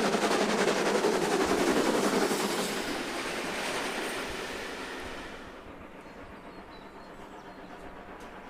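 A train passing with a fast, even clatter, loud at first and fading away over a few seconds.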